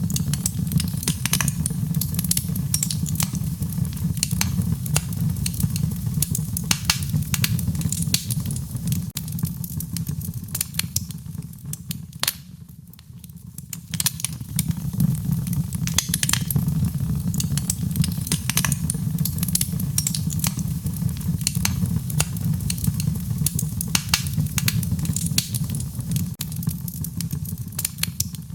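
Wood fire burning: irregular crackles and pops over a steady low rumble of the flames, with the crackling easing off briefly around the middle.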